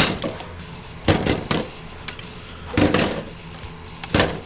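Steel parts from a Ford 5R110W transmission clanking and knocking as they are handled and set down during teardown. Sharp metal knocks come in small clusters: one at the start, a quick run of three about a second in, more near three seconds, and a pair near the end.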